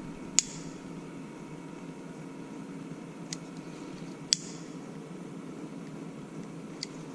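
A steady machine hum with four sharp metallic clicks. The two loudest clicks come about half a second in and a little past the middle.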